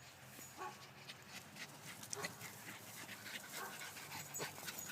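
Dogs panting with a few short, faint whimpers and scattered rustling as they play.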